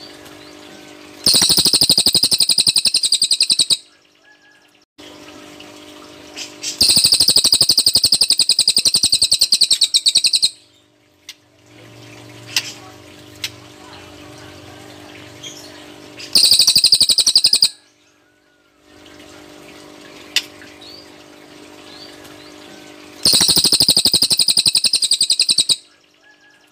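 Cililin bird singing its rapid machine-gun-like 'tembakan' trill: four long bursts of very fast, high, pulsed notes, separated by quieter gaps with a steady low hum and a few faint chirps.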